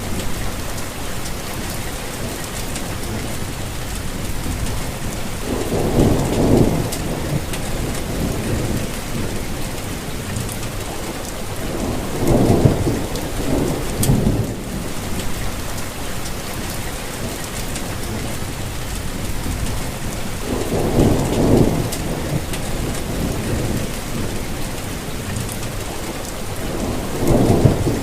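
Steady rainfall with scattered distinct drops, and low rumbles of thunder swelling up four times, each lasting a second or so.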